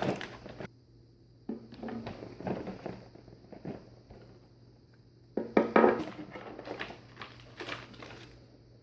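Plastic toy pieces and packaging handled and fitted together: scattered clicks, knocks and rustles, with a cluster of louder knocks about five and a half seconds in.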